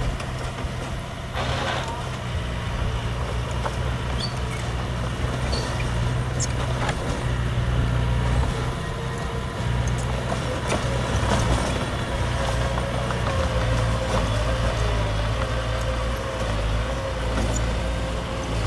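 Diesel engine of heavy earthmoving machinery running steadily, with a brief hiss about a second and a half in and scattered metallic clanks.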